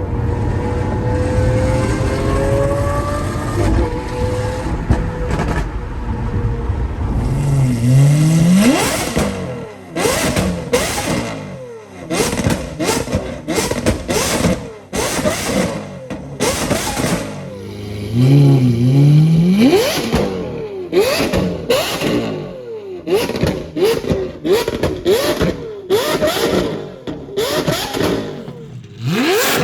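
Lamborghini Aventador S naturally aspirated V12 through a Gintani F1 straight-pipe exhaust, revving hard twice, each rev followed by a string of sharp backfire pops and cracks on the overrun.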